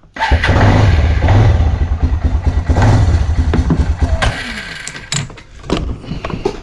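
Quad bike's petrol engine starting and running on its newly fitted carburettor, with a fast low pulse; about four seconds in the engine sound drops away to a much quieter level.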